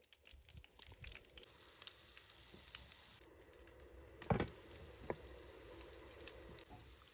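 Food sizzling and crackling as it fries in a pan, with a louder knock about four seconds in and a smaller one about a second later.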